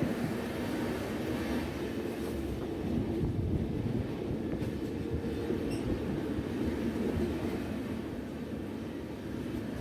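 Passenger train running along the track: a steady rumble of the coach and wheels on the rails.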